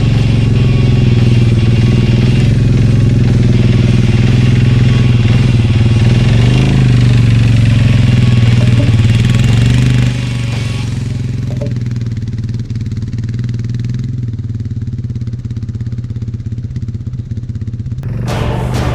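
Vehicle engine running steadily at a constant speed. About ten seconds in it becomes quieter and duller, and a short burst of noise comes near the end.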